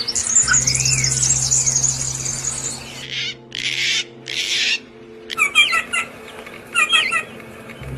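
Songbirds calling. A fast, high trill runs for about three seconds, then come three harsh, scratchy calls, then short chirping phrases repeated several times. A low steady hum runs underneath.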